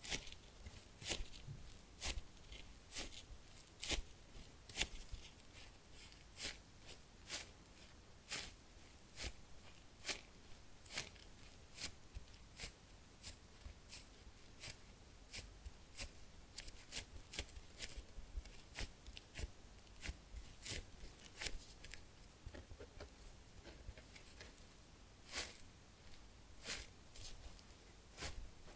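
Foam squishy toys squeezed and handled by fingers: a string of short, soft crackles and rustles, irregular at about one to three a second.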